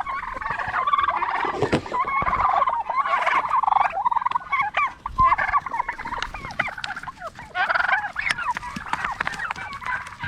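Domestic turkeys gobbling over and over, in a dense run of rapid warbling calls.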